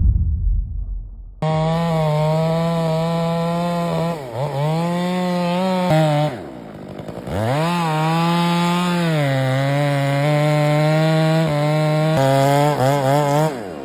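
A heavy low thud, then a chainsaw running at high revs and cutting. Its engine note drops several times as the throttle eases off or the saw bogs in the wood, then climbs back up.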